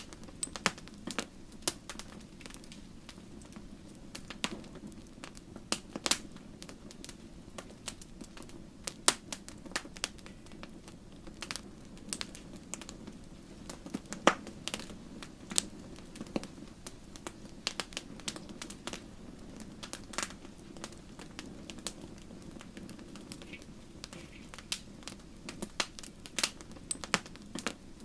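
Wood fire burning in a fireplace: logs crackling with irregular sharp pops and snaps over a steady low rush of flame.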